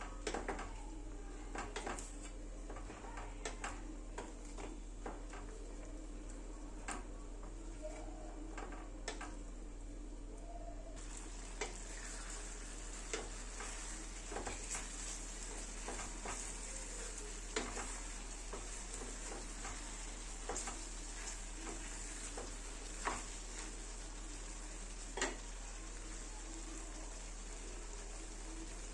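Chicken sizzling as it fries in a pan, with a spoon or spatula repeatedly clicking and scraping against the pan as it is stirred. The sizzle grows stronger about eleven seconds in.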